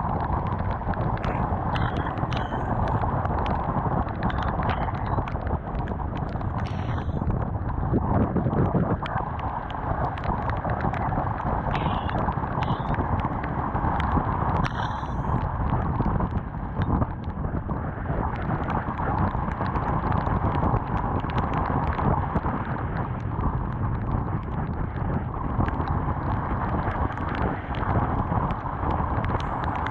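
Honda CBR250R's single-cylinder engine running at steady road speed in the rain, with wind rushing over the camera, and many small sharp ticks throughout.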